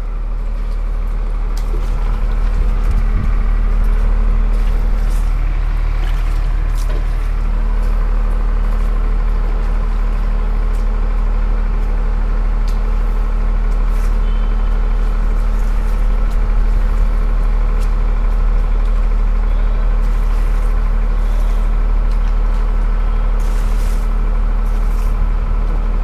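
A motor-driven machine running steadily at constant speed, with a deep hum and a few steady tones above it, unbroken throughout.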